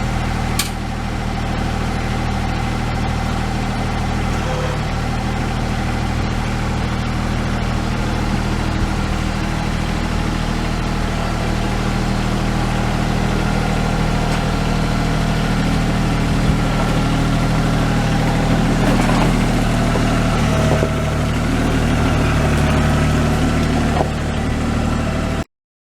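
Massey Ferguson sub-compact tractor's diesel engine running steadily at a near-constant speed.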